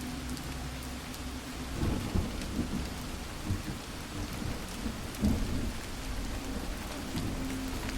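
Steady rain falling, with low rumbles of thunder swelling about two seconds in and again about five seconds in.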